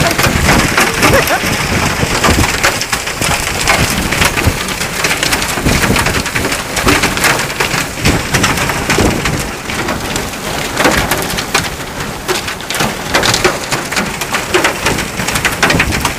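Rain falling steadily, a dense hiss full of drops striking surfaces.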